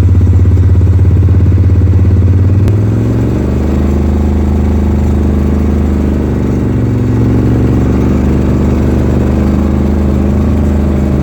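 Motor vehicle engine running steadily, its revs easing off slightly about three seconds in.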